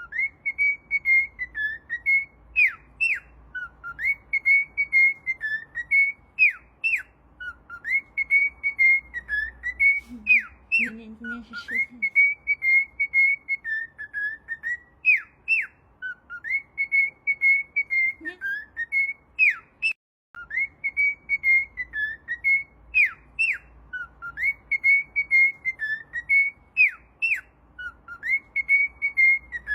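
Pet parrot whistling a short tune over and over, a clear held note broken by quick up-and-down flicks, the phrase repeating about every four seconds.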